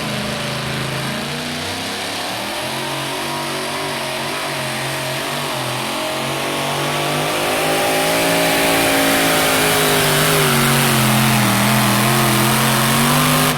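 Engine of a modified pulling truck or tractor running hard at high revs under load, its pitch wavering and getting louder about halfway through.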